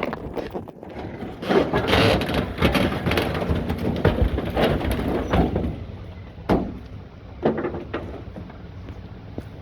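McNeilus rear-loader garbage truck working: its engine runs under a clattering, noisy load, loudest in the first half, followed by a few sharp knocks.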